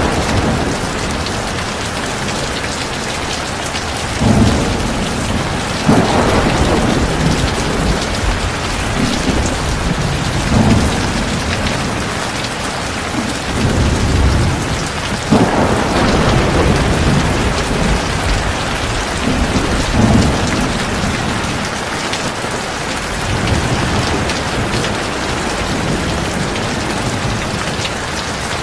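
Heavy rain pouring steadily, with several low rumbles of thunder swelling and fading every few seconds.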